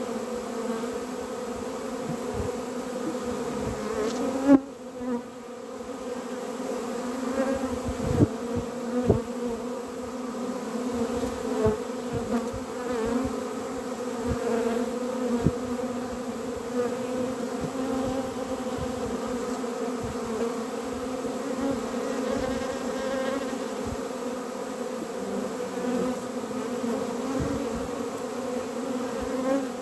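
Honeybees buzzing steadily around an open hive, a constant hum, with scattered knocks and clicks from handling the hive; the loudest knock comes about four and a half seconds in.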